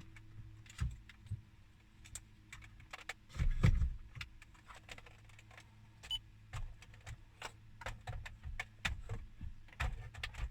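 Scattered clicks, taps and rattles of hard plastic dash trim and wiring connectors being handled and plugged back in, with one louder thump about three and a half seconds in, over a faint steady hum.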